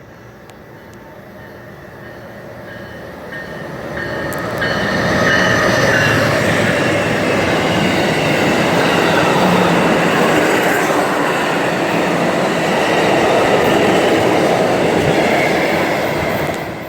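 Amtrak passenger train passing close by, the noise of its wheels on the rails building over about five seconds and staying loud until it falls away near the end.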